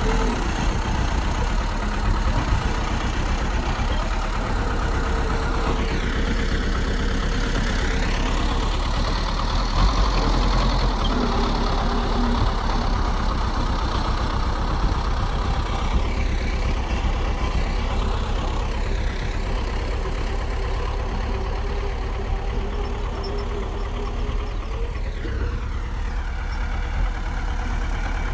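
Crawler bulldozer's diesel engine running steadily, with a steady whine running through it.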